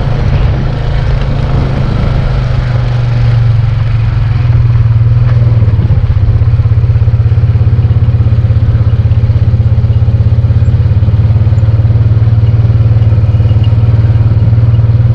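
Engine of the bike the recordist is riding, running steadily under him, with a quick rhythmic pulse. It gets louder about four and a half seconds in as the throttle is opened.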